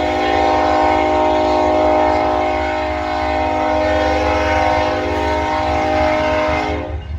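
CN freight locomotive's air horn sounding one long blast of several chime tones together, cutting off near the end, over a low steady rumble.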